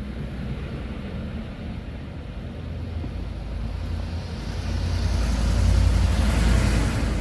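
A motor vehicle passing close by: a steady low rumble that grows louder about halfway through, with tyre and engine noise peaking near the end.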